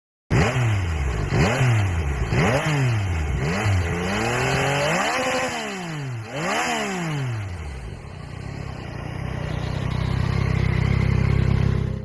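Yamaha MT-09's 890 cc three-cylinder engine blipped through a series of quick throttle revs, each rising and dropping back, then settling into a steady idle that cuts off at the end.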